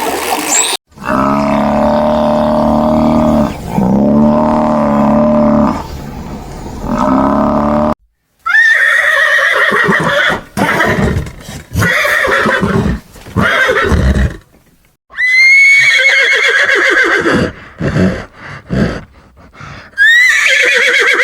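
A series of animal calls. Low, drawn-out calls come in the first several seconds, then loud high calls repeat, each jumping up sharply and falling away with a quaver, with short gaps between them.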